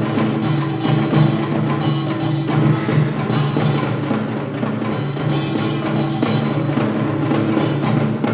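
Korean traditional ensemble music played live: drums such as janggu and buk struck in rhythm, with bright metallic washes, over held pitched tones.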